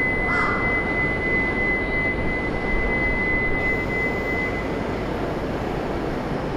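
Shinkansen train running past: a steady rushing noise, with a high steady whine that stops about two-thirds of the way through.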